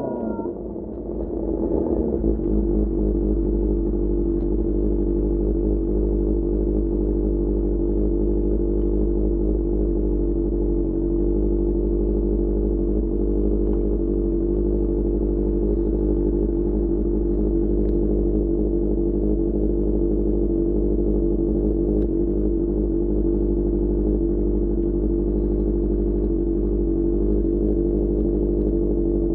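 Motorcycle engine of a QJMotor SRK600 inline-four, breathing through a Pure Austin Racing GP1R exhaust. It drops off in loudness in the first second or so, then runs at one steady engine speed with an even, unchanging note.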